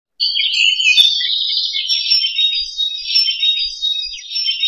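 Birds chirping and twittering, many short overlapping high calls in a busy, unbroken chorus that starts just after the beginning.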